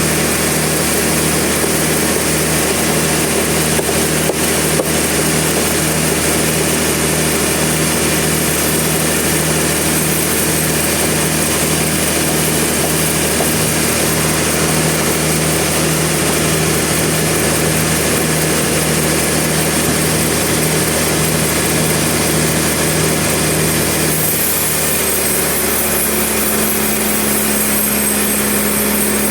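A sawmill's engine running steadily, its pitch stepping up and holding higher about 25 seconds in.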